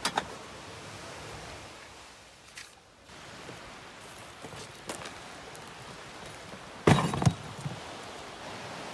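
A steady outdoor rushing noise, broken by a few sharp knocks. The loudest is a cluster of knocks about seven seconds in, and the rushing dips briefly between two and three seconds.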